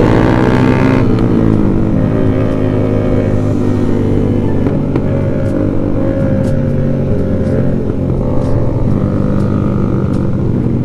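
Onboard sound of a Yamaha Jupiter MX underbone motorcycle's single-cylinder four-stroke engine running at cruising speed, with other motorcycles riding close by. The engine pitch shifts briefly just after the start, then holds steady.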